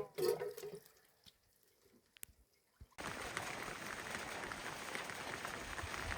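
A short low call in the first second, then near silence. About three seconds in, a steady hiss of rain with fine pattering begins abruptly.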